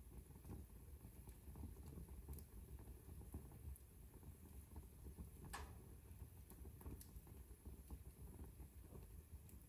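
Wood fire crackling softly in a fireplace: a low steady rumble with scattered faint pops, and one sharper snap a little past halfway.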